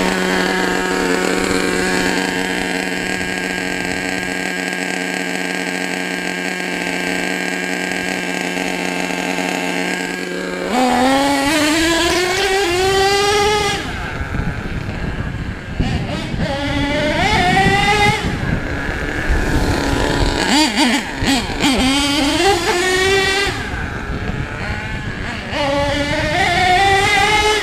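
HPI Savage SS nitro RC truck's engine running at a steady pitch for about ten seconds, then revving up and down repeatedly in rising whines as it is throttled.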